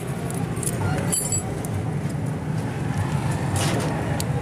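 Metallic clinks of tools and engine parts being handled, a few times, over a steady low hum of motor vehicles.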